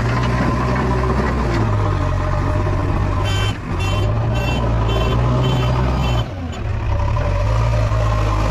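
JCB 3DX backhoe loader's diesel engine running steadily under load, easing off briefly twice. Through the middle a reversing alarm beeps about twice a second.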